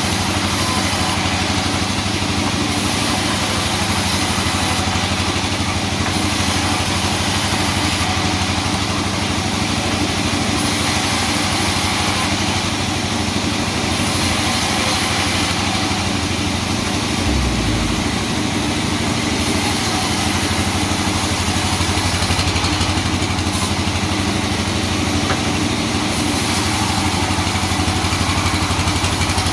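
A sawmill's engine running steadily at an even speed.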